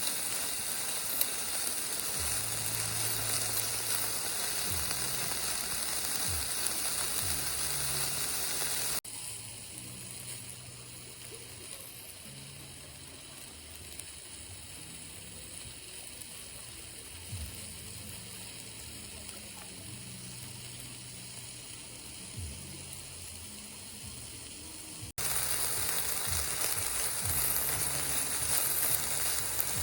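Food sizzling as it fries in a pan, a steady hiss that drops to a quieter level at a cut about nine seconds in and comes back louder near the end.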